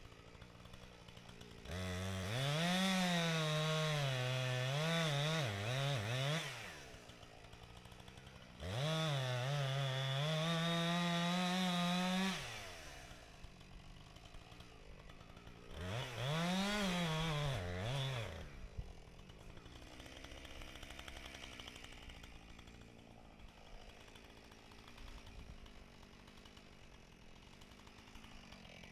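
Husqvarna 455 Rancher two-stroke chainsaw revved to full throttle three times while cutting through a large oak, its pitch sagging and rising under load. Between the bursts and after the last one it drops to a much quieter low running sound.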